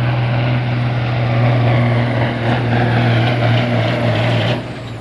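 Semi truck diesel engine pulling a weight sled at full load, with a steady drone and a high turbo whine. About four and a half seconds in, the engine lets off at the end of the pull and the turbo whine winds down.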